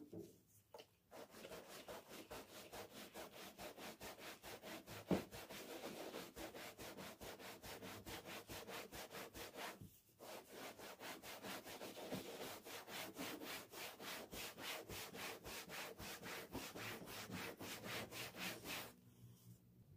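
Quick, even back-and-forth rubbing strokes, one after another, with a short break about halfway through and a single sharp knock about five seconds in.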